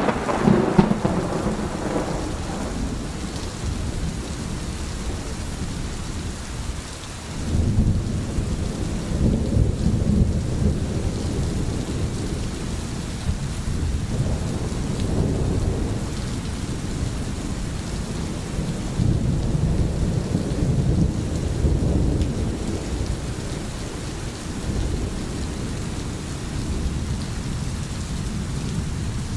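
Steady rain in a thunderstorm, with a sharp crack of thunder right at the start and then several long, low rolls of thunder that swell and fade.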